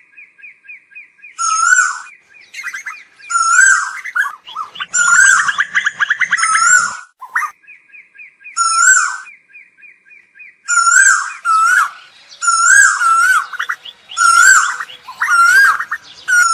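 Asian koel calling: loud, short, repeated call notes, broken twice by a fast stuttering run of notes. The calls crowd and overlap for a couple of seconds in the middle. It is a flock-calling lure for koels.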